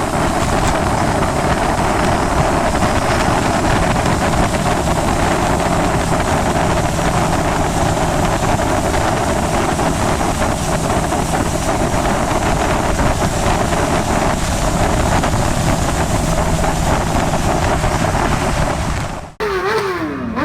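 Steady loud rushing noise of wind on the microphone with a motorcycle engine running under it. It cuts off abruptly near the end, where a motorcycle engine revs up and down.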